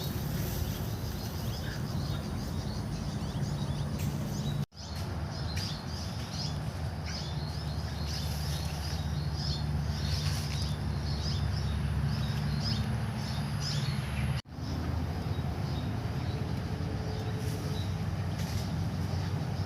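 Nakamura TB33 brush cutter's small two-stroke engine running steadily, with birds chirping over it. The engine sound cuts off abruptly twice, about five seconds in and again near fifteen seconds, each time resuming at once.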